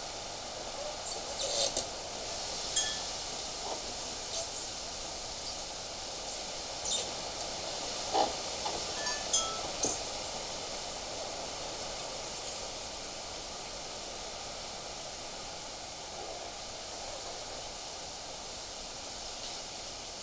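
Outdoor ambience of steady wind hiss, with a scatter of short, sharp high-pitched ticks and brief chirp-like notes during the first half that then die away.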